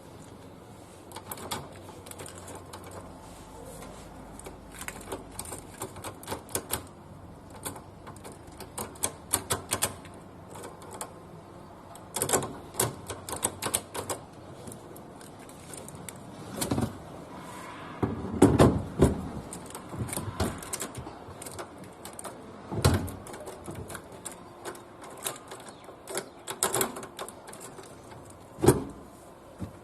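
Irregular mechanical clicking and knocking, with a few louder thumps scattered through.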